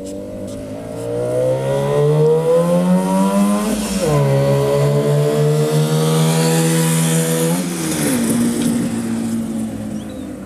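1964 Suzuki T10's 250 cc two-stroke twin engine pulling a motorcycle past: its pitch climbs for about four seconds, drops suddenly at a gear change, climbs again, then falls about eight seconds in and fades as the bike rides away.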